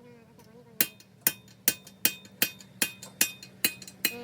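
Hammer striking metal in a steady rhythm, about two and a half sharp, ringing blows a second, starting about a second in.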